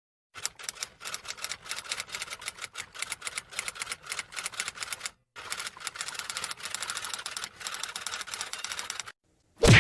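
Typewriter sound effect: fast, rapid keystroke clicks in two runs with a brief pause about five seconds in, then one loud single clack near the end.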